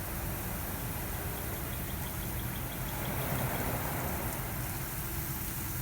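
Laser Wash 360 Plus touchless car wash running, with a steady low rumble of its machinery under the hiss of water spray. The spray hiss swells about three seconds in.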